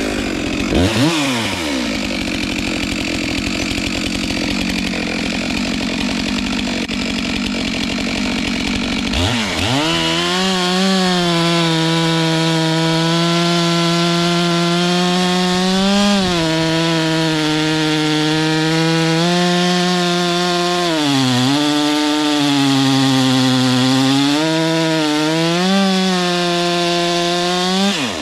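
Stihl MS 462 C two-stroke chainsaw running at high revs while slicing through a log. Its engine note sags briefly several times in the second half as the sharpened chain bites under load.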